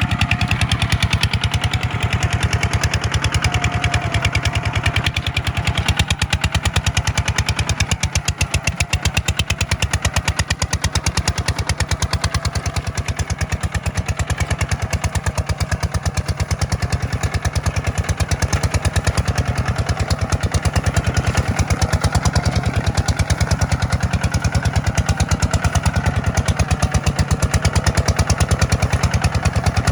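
Kubota tractor's diesel engine running steadily while pulling a plow, with a rapid, even beat.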